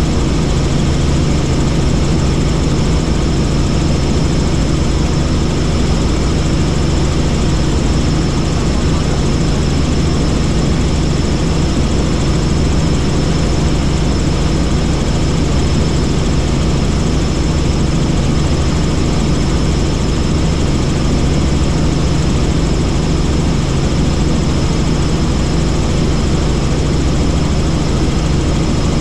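Helicopter in flight: a steady, unchanging drone of engine and rotor, with a constant low hum and a faint high whine.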